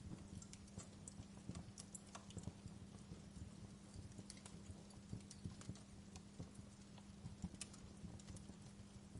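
Wood fire crackling quietly, with irregular sharp pops and snaps over a steady low hum.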